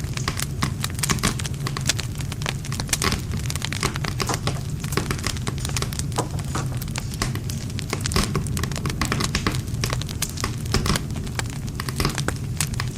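Wood campfire crackling, with many irregular sharp pops and snaps over a steady low rumble of the flames.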